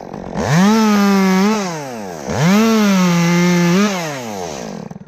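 Chainsaw cutting limbs in two full-throttle bursts, each rising quickly, held about a second and a half, then dropping back toward idle.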